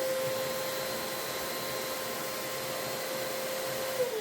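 Eureka wet/dry floor vacuum running: a steady rush of air with a constant motor whine. Near the end the motor switches off and winds down, its whine falling steeply in pitch.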